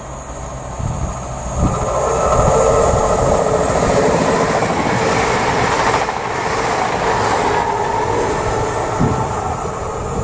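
CrossCountry diesel passenger train approaching and passing at speed, engine note and wheel-on-rail noise building over the first two seconds, staying loud while it passes, then easing off as it runs away. A few sharp wheel knocks sound on the track.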